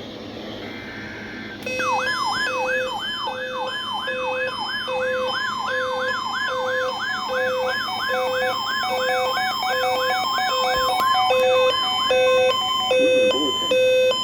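Electronic warning alert tone: a siren-like sweep repeating about three times a second over a steady tone, with a short low beep pulsing a little more than once a second. The sweeping stops near the end while the beeps and stepped tones carry on.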